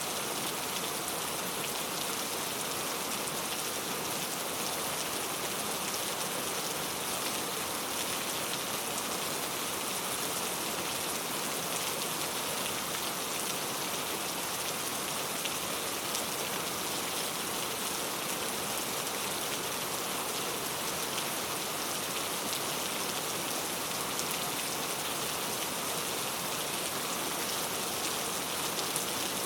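Steady rain falling and pattering on a surface, an even hiss of many drops with no change in strength.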